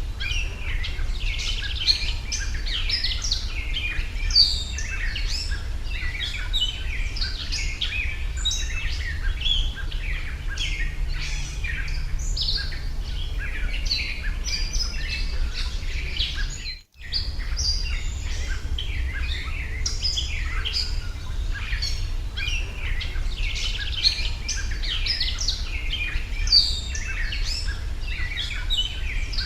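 Many small birds chirping densely and without pause, over a steady low hum. The sound drops out for an instant just past the middle.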